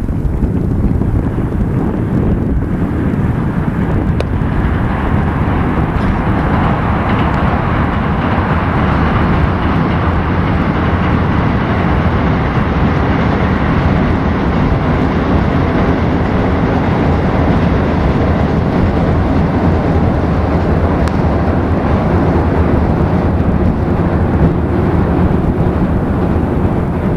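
Wind rumbling on the microphone, with the broad noise of a passing vehicle swelling over several seconds and fading away again near the end.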